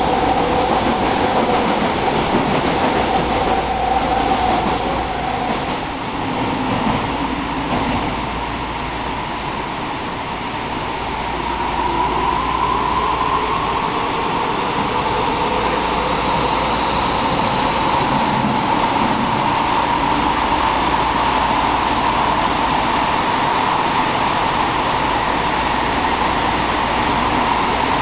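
Kyoto Municipal Subway 50-series train heard from inside the car while running between stations: steady rumble of wheels and rails with the electric traction motors' whine. The whine dips early on, then rises in pitch from about a third of the way in as the train picks up speed.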